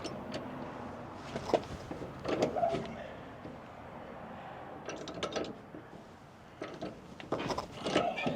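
Scattered clanks and knocks of hand work on the truck, in four short clusters with lulls between them.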